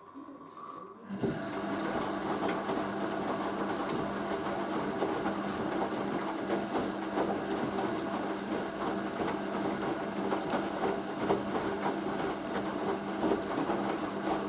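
Hoover A3060 Electronic 1100 washing machine's motor starting up about a second in and turning the drum in a steady rinse tumble, with a constant mechanical hum.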